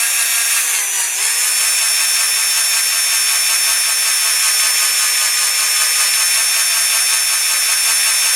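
Electric drill with a 2.5 mm bit drilling out a rivet post in a diecast metal model car base, its motor whining steadily at high speed. The pitch dips briefly about a second in, then holds steady.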